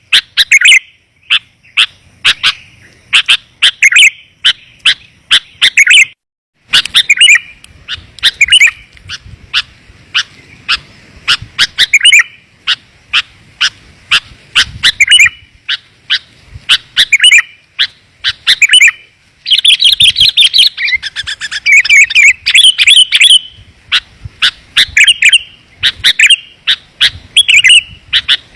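Sooty-headed bulbul (kutilang) lure call: rapid, clear chirps in quick runs, repeated almost without pause, with a short break about six seconds in and a busier, overlapping stretch about two-thirds of the way through.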